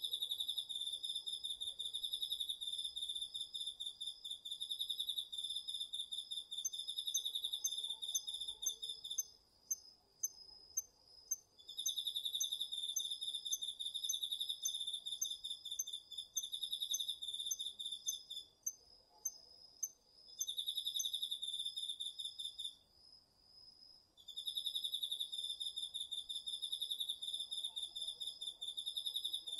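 Chorus of autumn singing insects, crickets among them. One loud pulsed trill comes in long phrases of several seconds with short breaks, over a steady high continuous trill, while a third insect adds short high chirps about twice a second through the middle.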